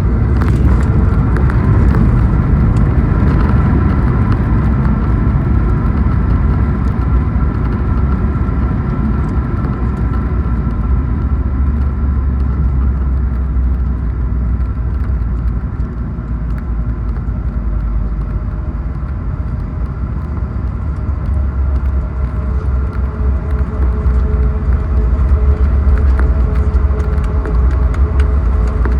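Cabin noise inside a Boeing 737 MAX 8 airliner: a steady, loud low rumble with a few faint steady whining tones above it. A lower tone joins in about 22 seconds in.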